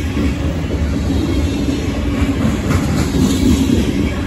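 Freight train of covered hopper cars rolling past close by: steel wheels on the rails make a steady, loud rumble with a few sharp clacks.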